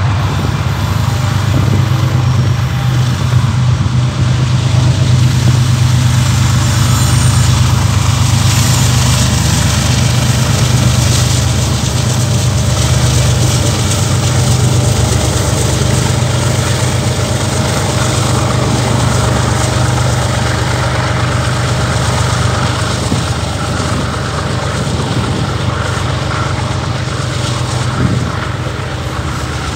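Two GE diesel-electric freight locomotives, an ES44AC leading and an AC4400CW second, pass with their diesel engines running in a loud, steady low drone. Near the end the steel wheels of the autorack cars rumble on the rails, with a single clank.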